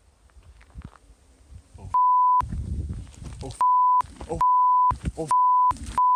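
Censor bleep: a steady, loud single-pitched beep cutting in four or five times, each about half a second long, starting about two seconds in. Between the beeps come short bursts of a person shouting over low rumbling noise.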